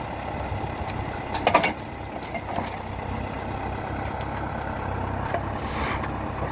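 Valmet 705 tractor's diesel engine running steadily, with a short loud clatter about one and a half seconds in.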